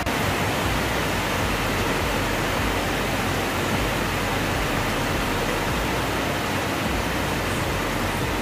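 Rain falling on corrugated metal roofs, a steady, even hiss with no let-up.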